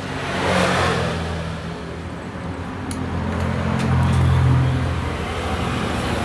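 A motor vehicle engine running nearby, its sound swelling about a second in and again around four seconds in.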